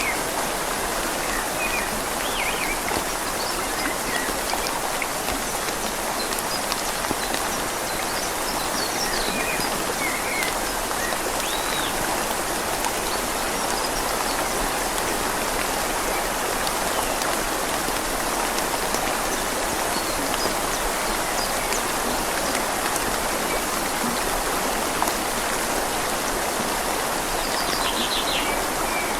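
Steady rain falling on leaves over the even rush of a flowing river, with a few brief high chirps now and then.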